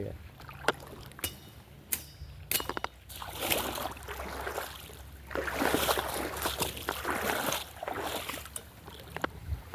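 Footsteps crunching and rustling on the forest floor, in uneven patches about a second apart, with a few sharp clicks in the first few seconds and a steady low rumble underneath.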